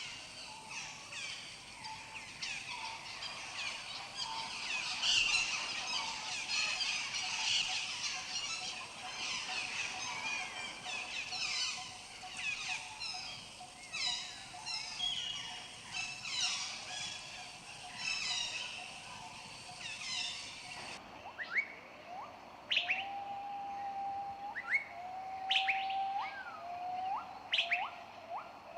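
A dense chorus of small birds chirping and twittering with quick high calls. About three-quarters of the way through, it cuts abruptly to a sparser scene: a bird gives several long level whistles that each end in an upward flick, with sharp single chirps from other birds.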